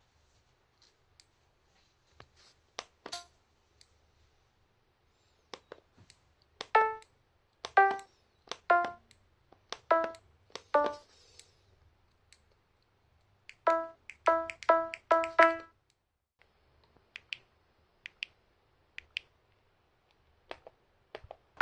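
Scattered faint clicks, then short pitched musical notes that each start with a sharp click: five notes of changing pitch about a second apart, then four in quick succession, then a few faint clicks again.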